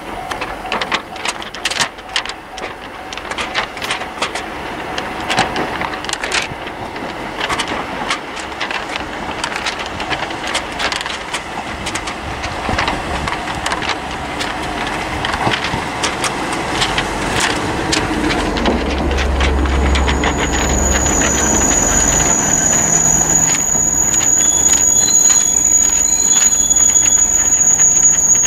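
The 'Aru Ressha' sightseeing train, a diesel railcar set, approaching and pulling into the platform, growing louder throughout. In the first half there are many sharp clicks and rattles. In the last third a low engine rumble builds and a steady high brake squeal sets in as the train slows.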